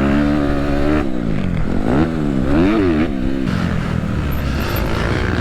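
Dirt bike engine under throttle on a motocross track: it holds high revs, drops off about a second in, then revs up and back down twice in quick succession before settling lower.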